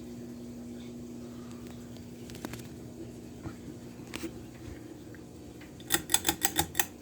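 Ceiling fan motor humming steadily. Near the end, a quick run of about seven sharp clicks, about eight a second.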